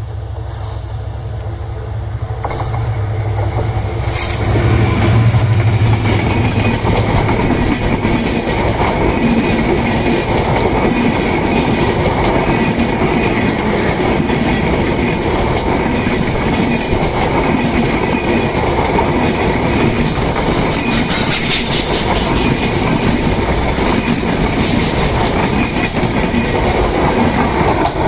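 Train passing close by: a locomotive's low engine hum for the first several seconds, then the coaches rolling past with a loud, steady clatter of wheels over the rails.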